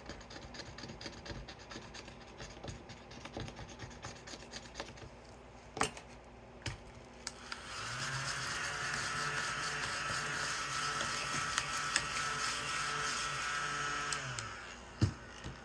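Coin scratching across a scratch-off savings chart, then a small handheld vacuum switched on for about seven seconds to pick up the shavings, running with a steady hum before switching off; its owner finds it underpowered and suspects it is not fully charged.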